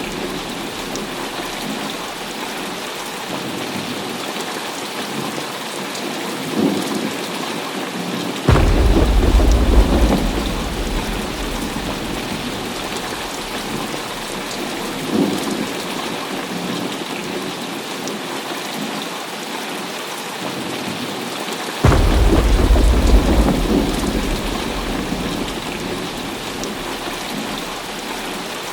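Heavy rain falling steadily through a thunderstorm. Thunder breaks in suddenly about a third of the way in and again about three quarters of the way in, each crack followed by deep rumbling that fades over several seconds, with fainter brief rumbles in between.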